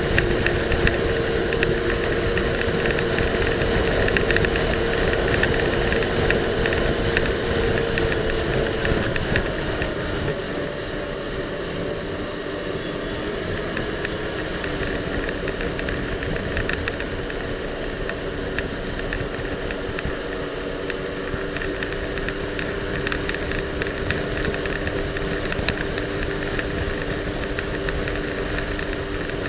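Jet ski engine running at speed under wind and water noise; about a third of the way in its pitch and level drop a step as the throttle eases, then it runs on steadily at the lower speed.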